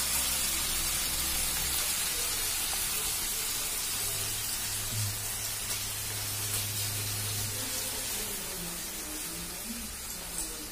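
Honey-marinated chicken pieces sizzling in olive oil in a grill pan, a steady hiss that slowly fades as the glaze caramelises.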